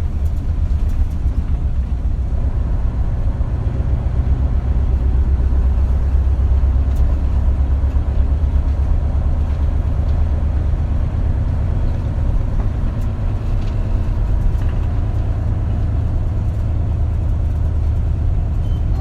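Inside the cabin of an Isuzu Erga KL-LV280L1 route bus: a steady, deep drone from the diesel engine and the road, a little stronger partway through.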